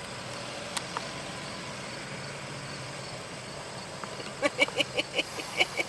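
Steady low hum of idling engines as the tractor parade passes the waiting traffic, with a single click a little under a second in. Near the end comes a quick run of about eight short, high-pitched sounds, roughly five a second, louder than the engine hum.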